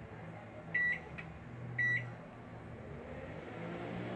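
Repaired microwave oven running with a low steady hum, giving two short high beeps about a second apart. The hum rises a little near the end.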